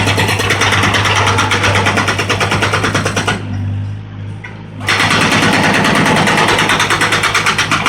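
A Volvo 55 compact excavator's diesel engine running hard with a fast, even clatter. It drops away briefly a little past the middle, then comes back at full level.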